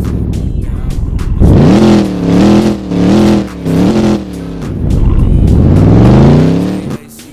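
Car engine revving loudly: a steady running note builds, then several quick revs rise and fall, and one long rev climbs in pitch before cutting off sharply near the end.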